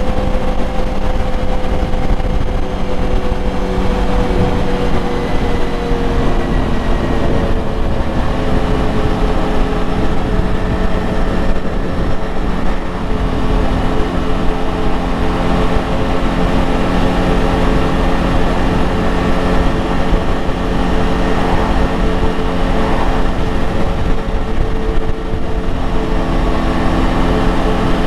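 ATV engine running at a steady cruise under a constant low rumble, its pitch easing down slightly about six seconds in and then holding even.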